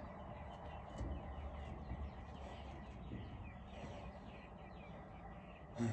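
Birds chirping in the background over a faint steady outdoor hum, with a couple of soft low knocks about one and two seconds in.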